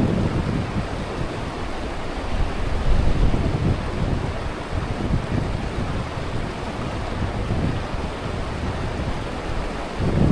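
Strong wind buffeting the microphone in gusts over a steady rush of noise.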